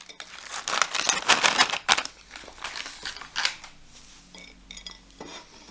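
Plastic ration pouch crinkling and rustling as dried cranberries are shaken out of it into a bowl. A quick flurry of crackles and small clicks for the first three seconds or so, then a few faint clicks.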